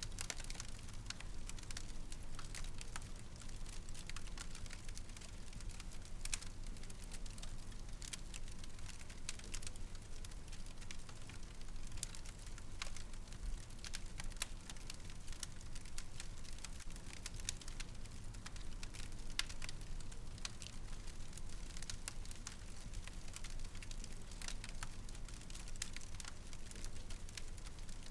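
Wood fire crackling: many small, irregular snaps and pops over a steady low rumble.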